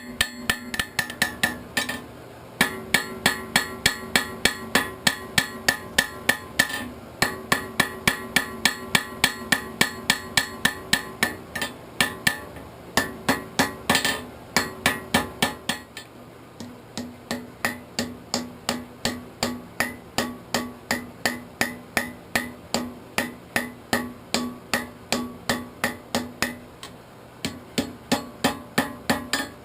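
A hammer striking hot steel on an anvil in a quick, even rhythm of about three blows a second, each blow ringing. There are brief pauses between runs, and the blows are lighter after the midpoint. This is the hammering that draws out and shapes the arrowhead's socket.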